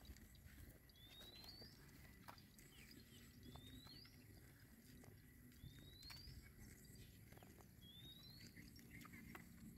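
A bird calling faintly: a short, rising whistled note repeated four times, every two seconds or so, over soft outdoor background noise.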